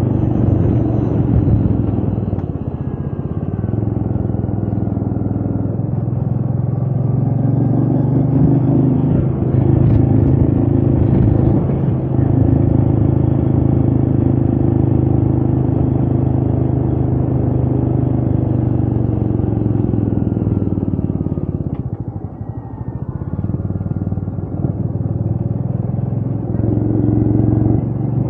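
Royal Enfield Meteor 350's 349 cc single-cylinder engine running steadily under way, with wind noise on the microphone. The engine sound dips briefly about three-quarters of the way through, then picks up again.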